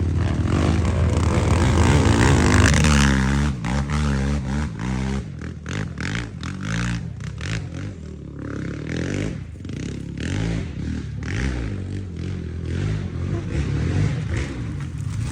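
Quad (ATV) engine running and revving, its pitch rising and falling quickly about three to five seconds in, then running lower under many sharp clattering knocks and scrapes.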